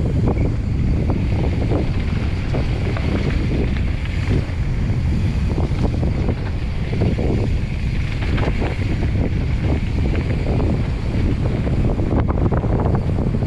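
Wind rushing over a mountain biker's camera microphone at speed, over a steady low rumble from the tyres on a dirt trail, with frequent short clacks and rattles from the bike over rough ground.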